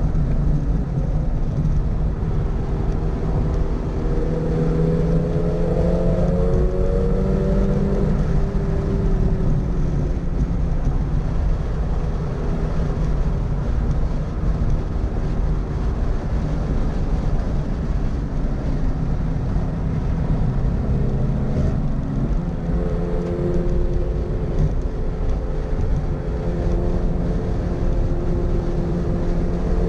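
Toyota GR86's 2.4-litre flat-four engine under load at track speed, over heavy road and wind noise. The engine's pitch climbs about a quarter of the way in, drops back, holds lower through the middle, then climbs again near the end.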